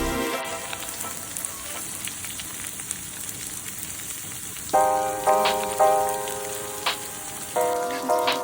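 Food sizzling as it fries in a pan, a steady hiss, with background music of plucked notes coming in about halfway through.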